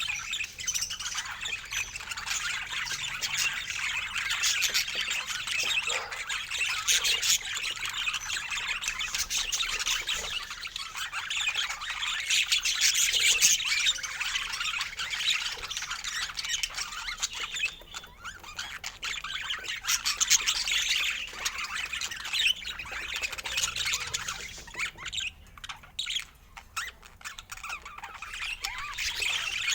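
A flock of birds calling over one another in a dense, continuous chatter of squawks and short chirps. It eases briefly twice in the second half.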